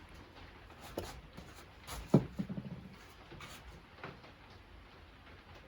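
Small handling noises on a workbench: a few light clicks, then a sharp knock about two seconds in with a brief rattle after it, as parts and the lube container are picked up and set down.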